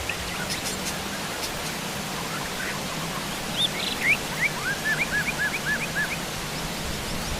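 Heavy rain falling steadily, with wild birds chirping over it. A bird gives a few louder, higher chirps about halfway through, then a run of about five short, evenly spaced repeated notes.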